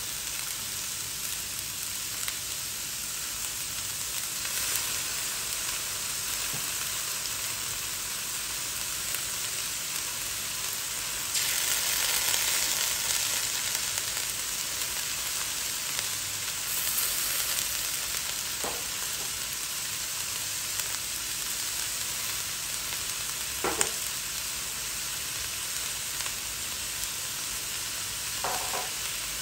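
Shredded cabbage and carrot sizzling in a stainless-steel wok, a steady frying hiss. The hiss swells louder for a few seconds about twelve seconds in, as dark sauce goes into the hot pan, and a few light clicks come in the second half.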